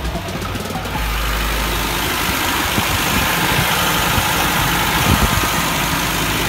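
A 1984 BMW E30's engine idling steadily, running with its air filter removed.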